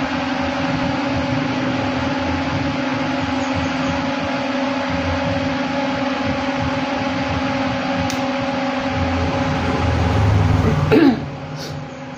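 Power amplifier turned up with no signal, its loudspeaker giving a steady hiss with a low hum. Near the end a short loud scrape, after which the noise drops.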